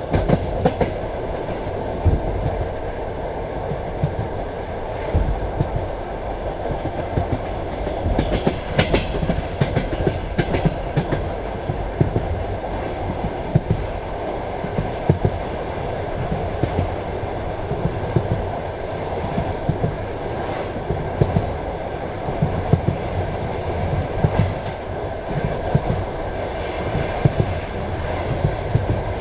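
Passenger railway carriage running along the track: a steady rumble with irregular wheel clacks and knocks over the rails, and a faint thin whine for a few seconds in the middle.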